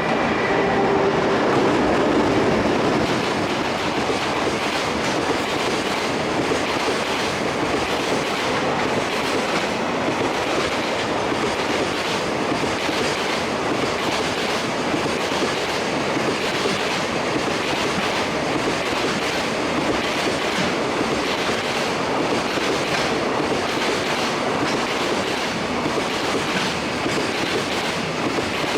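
A long freight train hauled by an EH500 electric locomotive passing at speed: a few steady tones at the start fade within about two seconds, giving way to the continuous rumble of the wagons and a regular clickety-clack of wheels over rail joints.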